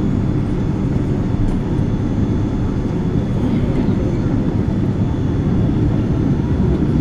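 Boeing 777 cabin noise heard from a rear window seat during takeoff: a steady low rumble of the engines and airframe, growing slightly louder near the end.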